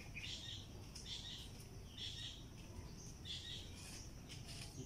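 Faint outdoor birdsong: short chirps repeated about once or twice a second, over a low steady rumble.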